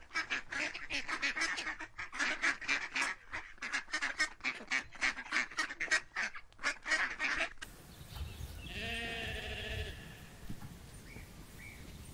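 Mallard duck quacking in a quick run of short calls, about four a second, that stops about seven and a half seconds in. A sheep then gives a single wavering bleat.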